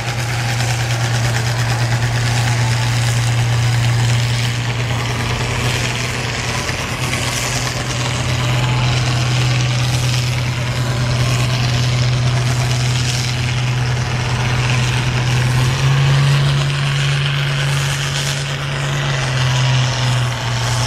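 A tractor engine pulling a weight sled down the track under heavy load, a steady low drone. Its pitch steps up about three-quarters of the way through and falls back a few seconds later.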